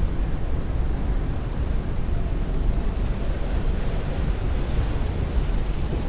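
Heavy rain and strong wind heard from indoors, a steady deep rushing with rain on the window, slightly brighter hiss swelling about four seconds in.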